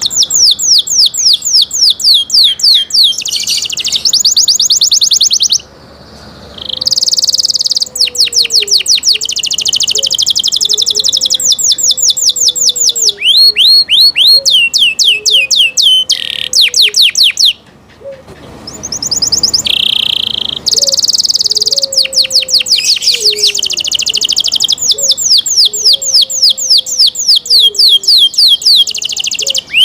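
Domestic canary singing: long fast trills, each made of one short note repeated many times at a high pitch. The song changes from one trill to the next and pauses briefly twice.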